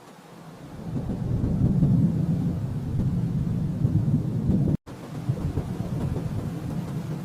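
Low thunder rumbling, swelling up out of a quiet hiss about a second in. It cuts out abruptly for an instant just before the five-second mark, then goes on rolling a little softer.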